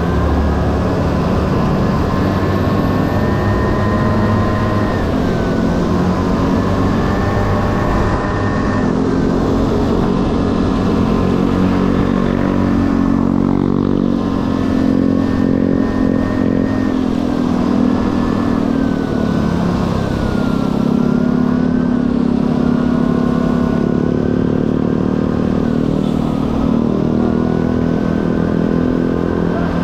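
Honda Dio two-stroke scooter engine running on the move, its pitch rising and falling with the throttle several times, with a dip about halfway through.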